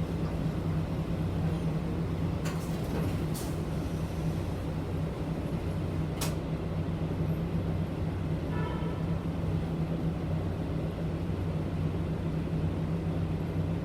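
Inside a city bus on the move: the engine runs with a steady low hum, with a few sharp clicks and rattles from the cabin about two and a half, three and a half and six seconds in.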